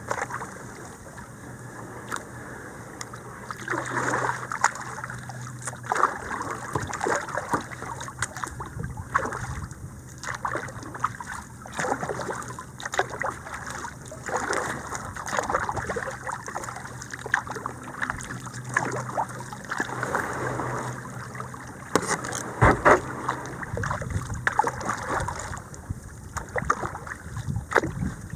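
Kayak paddling on a creek: the paddle dips and splashes in the water in short, irregular strokes, over a steady wash of moving water.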